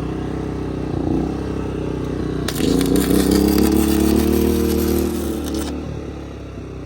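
Flux-core wire welding arc crackling and sizzling for about three seconds, starting about two and a half seconds in, over the steady running of an engine-driven generator whose note grows louder while the arc is struck.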